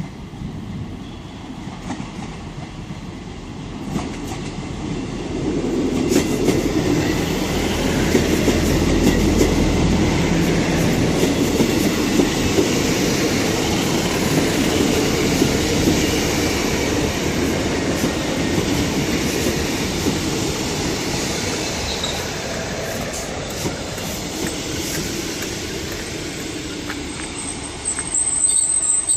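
Coupled diesel multiple units (a Class 158, Class 150 and Class 153) pulling slowly into the platform: underfloor diesel engines running and wheels clacking over the rail joints. The sound builds over the first few seconds, holds, then eases off, with a thin high squeal near the end.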